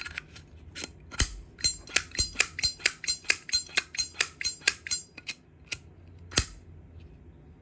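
A rapid run of sharp metallic clicks from a Zippo lighter being handled, about five a second for a few seconds, many with a brief high ring. A few slower clicks follow, and one more stands out near the end.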